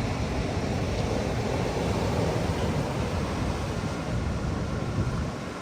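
Wind buffeting the microphone over the steady wash of ocean surf at a beach.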